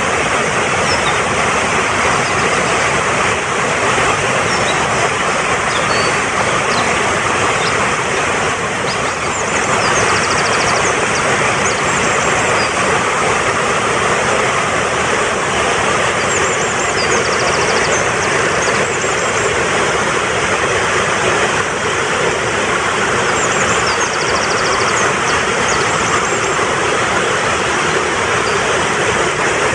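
Swift mountain stream rushing steadily, with faint high bird chirps and quick trills coming in now and then over the water.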